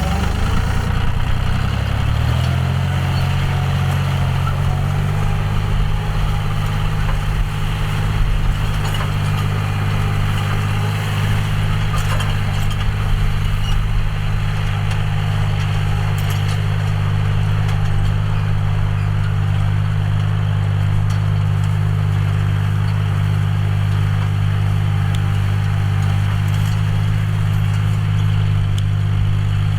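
John Deere 5045D tractor's three-cylinder diesel engine running while ploughing. Its pitch rises over the first few seconds, then holds steady.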